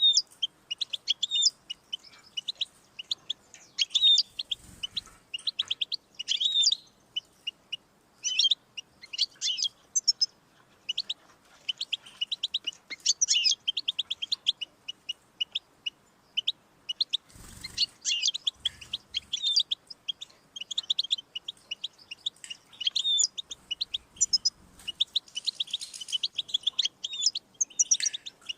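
European goldfinch singing: fast twittering, high-pitched phrases of rapid notes and trills, broken by brief pauses.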